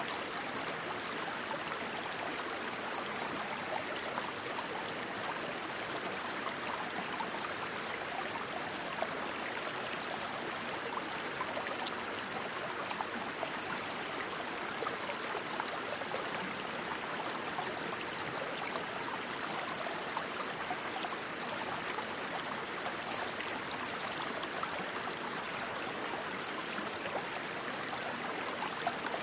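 Rushing stream water flowing steadily. Short high-pitched chirps are scattered over it, with a brief rapid trill about three seconds in and again near the end.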